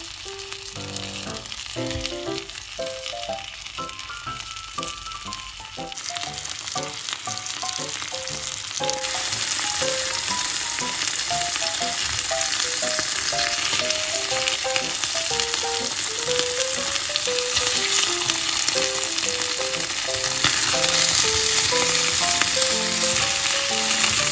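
Chicken breasts sizzling as they fry in butter in a cast-iron skillet, the sizzle growing louder about a third of the way in. Background music plays a melody underneath.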